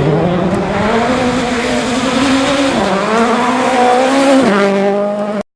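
Rally car engine under hard acceleration, its pitch climbing, dropping with an upshift about three seconds in, then climbing again before falling away near the end. The sound cuts off abruptly.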